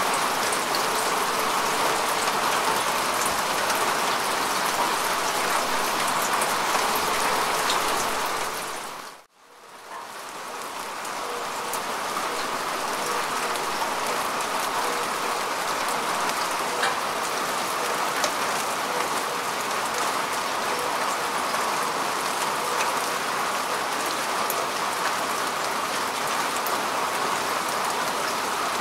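Steady rain falling on grass and earth, a continuous hiss with scattered drop patter. About nine seconds in it fades out to near silence and then fades back in, a little quieter than before.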